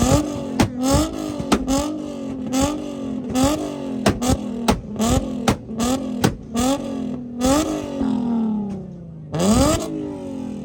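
A car engine revved hard in quick repeated blips, its pitch climbing and falling about twice a second, with sharp pops and cracks from the exhaust. The revving dies away, then one big rev rises near the end.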